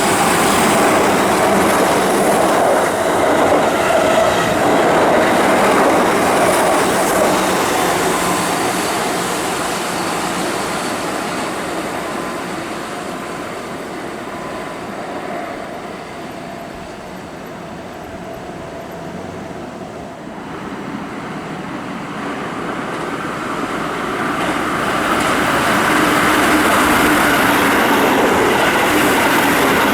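Keihan 8000 series electric train passing at speed, the clatter of its wheels on the rails fading away. About two-thirds of the way through, a Keihan 13000 series electric train approaches, its noise building again.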